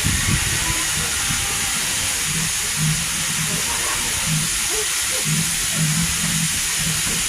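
A heritage railway train running, heard from on board a carriage: a steady rumble under a constant hiss, with short low hums coming and going.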